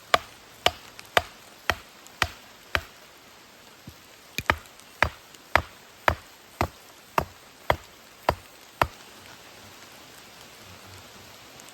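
Sharp chopping strikes on wood, about two a second, with a short break near three seconds; they stop about nine seconds in, leaving steady rain.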